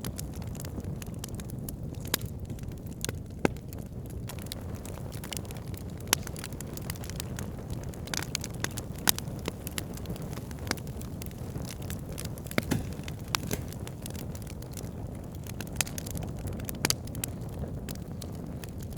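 Wood campfire burning, crackling with irregular sharp pops and snaps over a steady low rumble.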